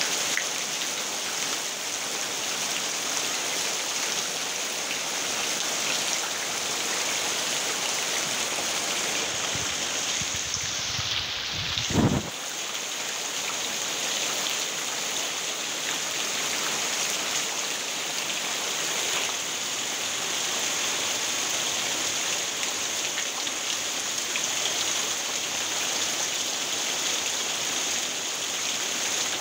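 Heavy monsoon rain falling steadily on a dirt road and palm trees, a dense, even hiss. About twelve seconds in, a brief low rumble ends in a single thump.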